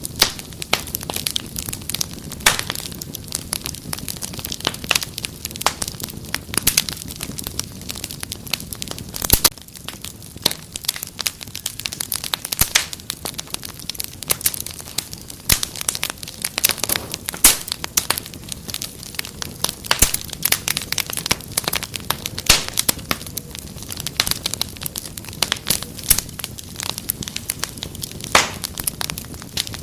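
Wood fire crackling, with many sharp irregular pops and snaps over a low steady hiss.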